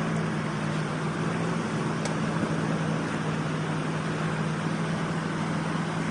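An engine running steadily, a constant low hum over a wash of noise, with one light click about two seconds in.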